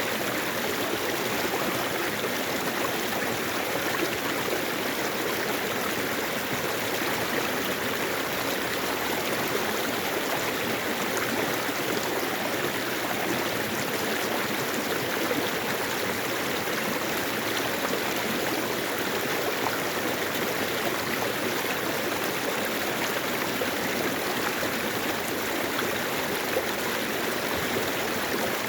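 Mountain valley stream running over rocks: a steady rush of flowing water with no change in level.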